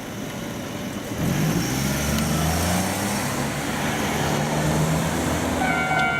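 Road vehicle engine running close by at a street crossing, its low hum coming in about a second in and shifting slowly in pitch as the vehicle moves. Near the end a steady high ringing tone starts up.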